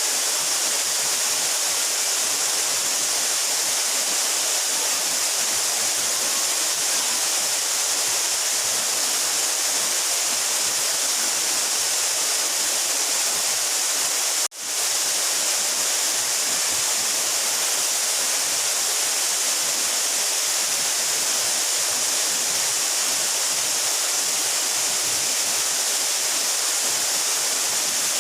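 A 12-metre mountain waterfall pouring in a steady, even rush of falling water. There is a momentary drop-out about halfway through.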